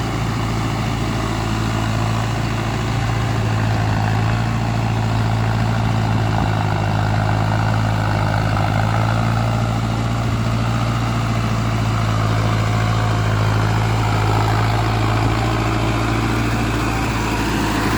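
Mahindra 6060 4WD tractor's diesel engine running at a steady, unchanging speed, a constant low engine note.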